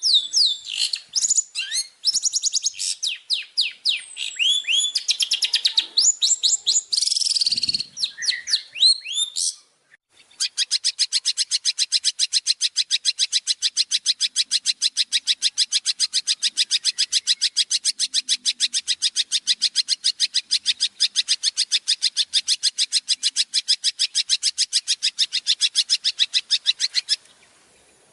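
Recorded songbird song. Varied high chirps and sweeping whistled notes run for about ten seconds, then after a brief pause comes a long, fast, even trill of repeated high notes that stops abruptly near the end.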